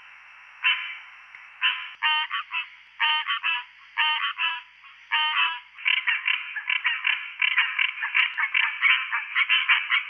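Green treefrogs calling: short, nasal quonk calls with a clear pitch. At first there are a few spaced calls, about one a second. From about six seconds in, the calls come thick and overlapping, several a second.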